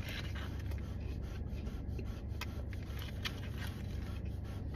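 Someone chewing a bite of crispy fried chicken sandwich, with scattered short crunches and rustles of the paper wrapper over a steady low hum.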